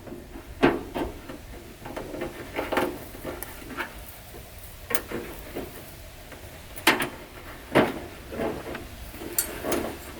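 Scattered metal clanks and clicks of hand tools against tractor parts, a few sharper knocks standing out among lighter rattles.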